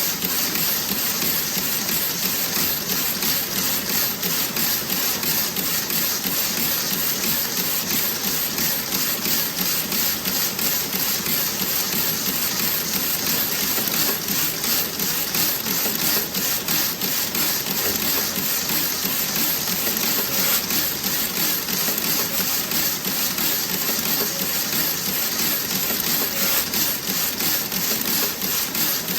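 Toe-sock knitting machine running: a fast, even mechanical clatter of many small clicks that goes on without a break.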